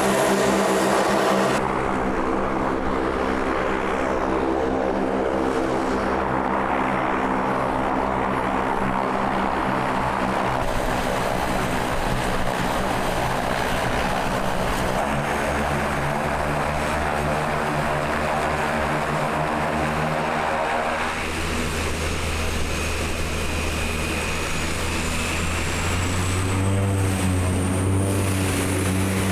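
Seaplane's propeller engine running steadily, with the note changing about two-thirds of the way through.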